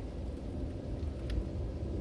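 Logs burning in a fireplace: a steady low rumble of the fire with a couple of sharp wood crackles about a second in.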